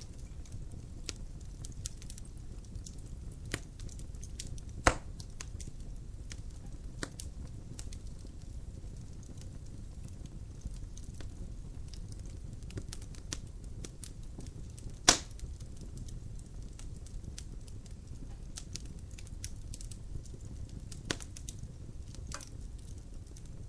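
Wood fire burning in a fireplace: a steady low rumble with scattered crackles and sharp snaps, two loud pops about five and fifteen seconds in.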